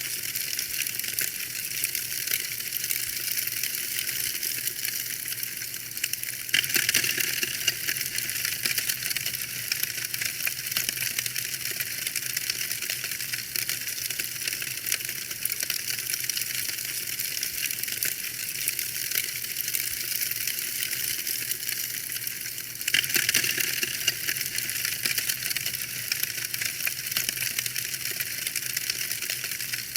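Wood fire crackling steadily: a dense run of small pops and snaps, which grows a little louder about six and a half seconds in and again about two-thirds of the way through.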